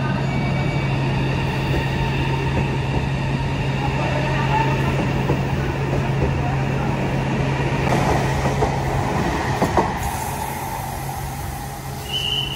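Whoosh KCIC400AF high-speed electric train running, heard from inside a carriage: a steady rumble with a constant low hum. A short high tone sounds near the end.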